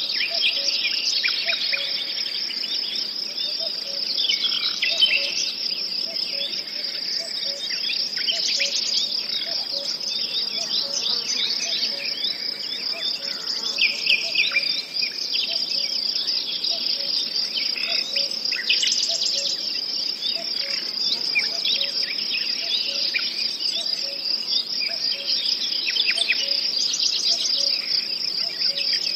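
Nature ambience: insects trilling in a steady high chorus, with birds chirping and calling over it throughout.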